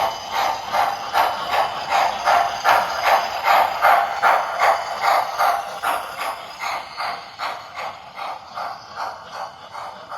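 Model steam locomotive chuffing at an even beat of about two and a half chuffs a second, growing fainter over the second half.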